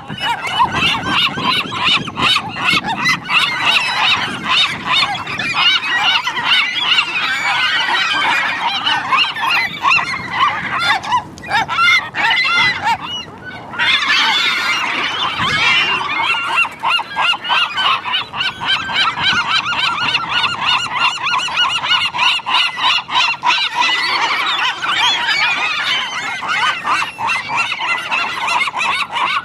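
A large flock of gulls calling at once, a dense, unbroken din of overlapping squawks and cries that thins out briefly about halfway through.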